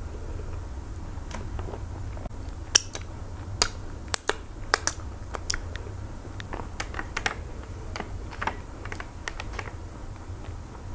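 Close-miked chewing of a mouthful of eba with slimy okro-melon soup: irregular sharp, wet mouth clicks and smacks, loudest in the first half, over a steady low hum.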